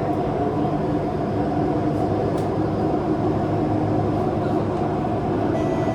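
Kawasaki-CRRC CT251 metro train running at speed, heard from inside the car: a steady, loud rumble of wheels on rail, from wheels that have flat spots. Near the end a set of thin, high whining tones comes in over the rumble.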